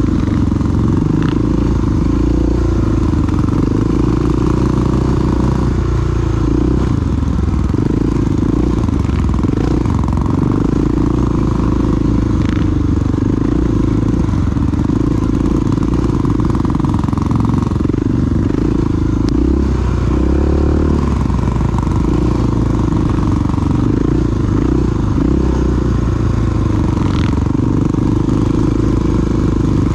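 Single-cylinder four-stroke dual-sport motorcycle engine running steadily under way, with small rises and falls in engine speed.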